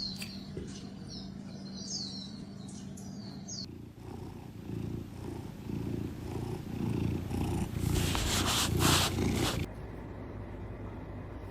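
Domestic cat purring close to the microphone as a pulsing rumble that grows louder from about four seconds in, with a burst of scratchy noise near the end. Short high chirps repeat in the first few seconds.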